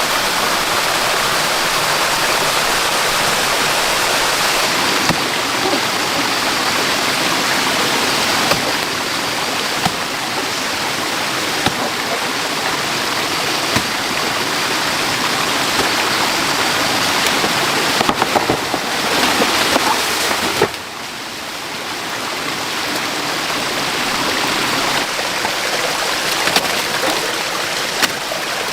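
Flowing water, a stream rushing steadily, with scattered small knocks and clicks over it. The water noise drops suddenly about two-thirds of the way through, then slowly builds back.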